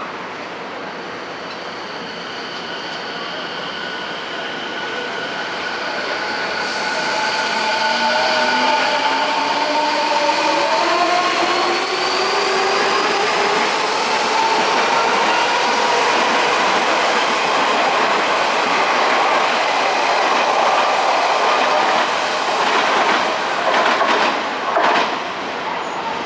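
Odakyu 4000 series electric train accelerating, its IGBT-VVVF inverter whining in several tones that rise in pitch as it picks up speed, and growing louder as it goes. Near the end a few sharp clicks come from the wheels crossing rail joints.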